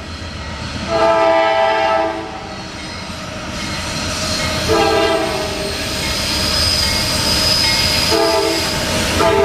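Norfolk Southern freight locomotive's air horn sounding four blasts, the first about a second long and the rest shorter, over the rising rumble of the approaching train.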